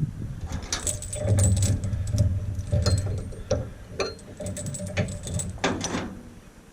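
Metal clinking, rattling and ringing as a tractor PTO shaft is worked onto its splined stub, with a spring collar that must be pulled back and pushed to lock it on. There are several sharp metallic clicks and clanks over about six seconds.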